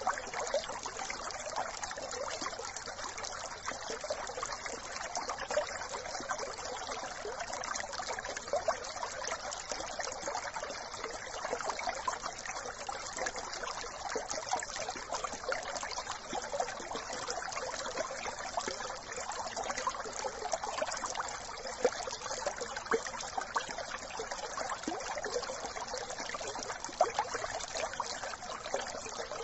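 Brook trickling and babbling steadily, a constant wash of running water flecked with small splashes and gurgles.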